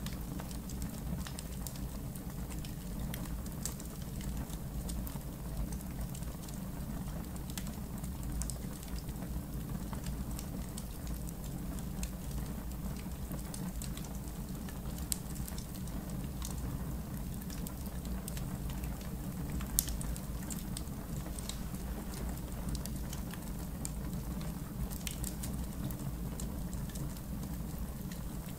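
Campfire in a fire pit crackling: a steady low rumble with scattered sharp pops throughout, two louder pops about halfway through and about two-thirds through.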